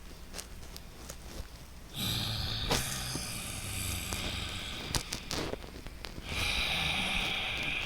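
Loud, hissing breaths through the nose, used as a relaxation breathing exercise: one about three seconds long starting about two seconds in, then, after a short pause, another starting about six seconds in.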